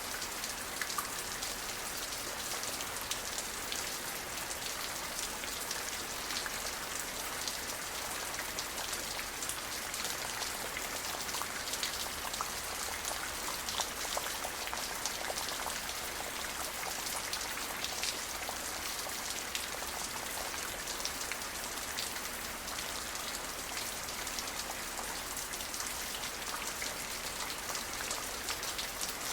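Steady rain falling, with many individual drops ticking against a surface over an even hiss.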